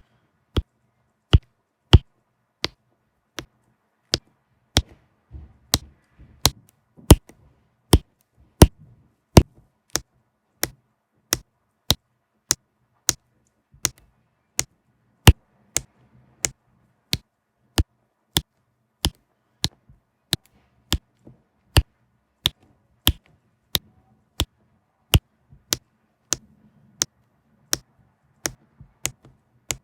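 A steady series of sharp taps or clicks, about three every two seconds, some louder than others.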